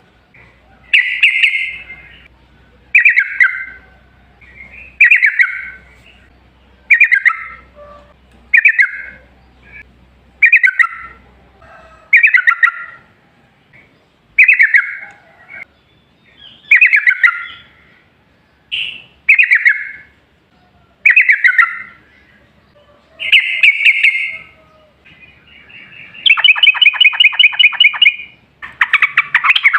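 Yellow-vented bulbul (trucukan) singing short, bubbly liquid phrases about every two seconds. Near the end it breaks into a longer, rapid rolling trill.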